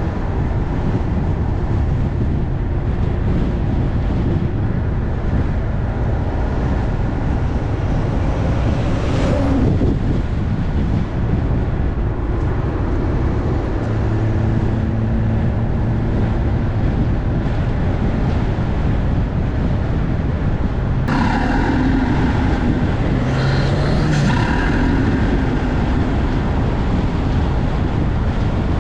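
BMW M340i's turbocharged B58 inline-six fitted with an MST cold air intake, running under load with induction sound. A rising whoosh comes about nine seconds in, and more whooshes and rising sweeps come from about twenty-one seconds in.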